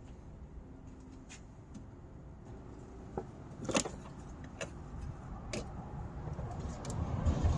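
A few separate light clicks and knocks of small parts being handled, the sharpest a little under four seconds in, over a low rumble of handling noise that grows louder near the end.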